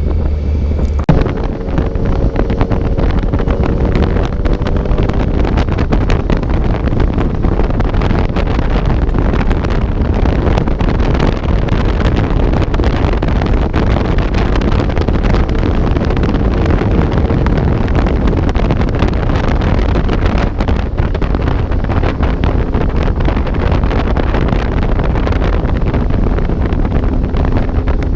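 Heavy wind rush over the microphone of a moving motorcycle, with the bike's engine faintly audible underneath.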